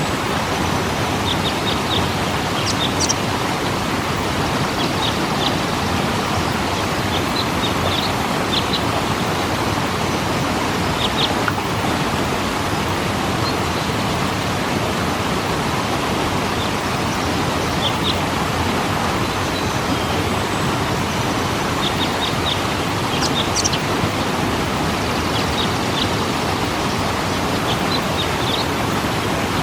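Waterfall rushing steadily, with short high chirps in small clusters scattered through it.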